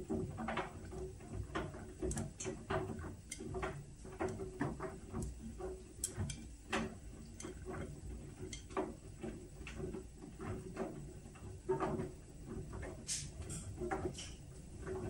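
Whirlpool washing machine running its Steam Refresh cycle: a steady low hum under irregular light clicks and ticks, a few each second.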